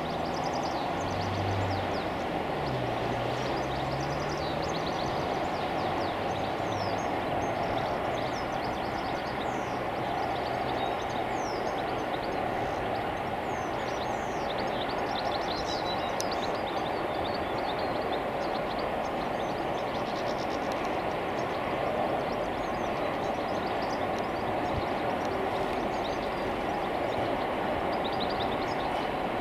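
A train running past on the line: a steady, continuous rumble of wheels on rails, with short high squeaks over it.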